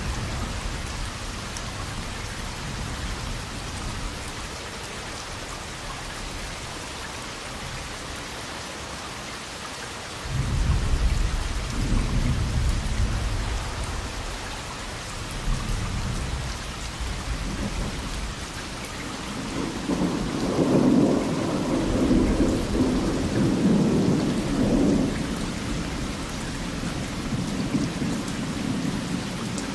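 Steady heavy rain hissing, with rolling thunder: a low rumble breaks in suddenly about a third of the way through, and a louder, longer roll comes about two-thirds of the way through before fading.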